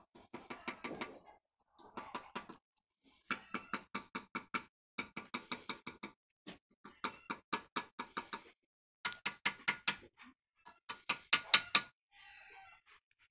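Rapid hammering in bursts of several quick blows, about five a second, each strike with a slight metallic ring, during masonry work on a fireplace.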